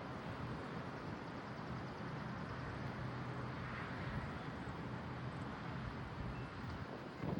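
Steady rushing of wind outdoors ahead of a severe thunderstorm, with a faint low drone underneath and a brief louder rustle near the end.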